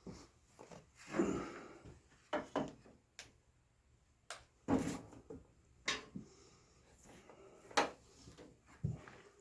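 Irregular knocks and clunks of objects being handled and set down, with a short scrape about a second in and the sharpest knock near the end.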